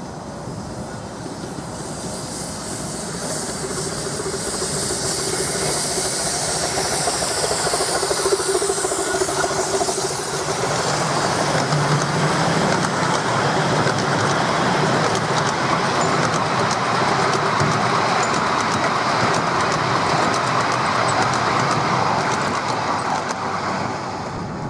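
A miniature railway train, hauled by the 2-4-2 locomotive No.7 "Sandy River", running past. The sound builds as the locomotive approaches, with a hiss, then the carriages rumble and click steadily along the rails, fading near the end.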